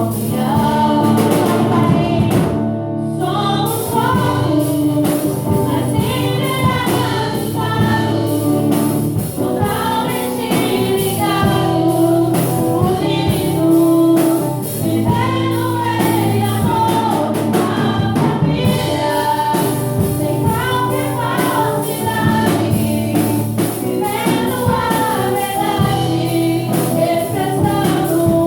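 Gospel music: voices singing a melody over instruments with a steady beat.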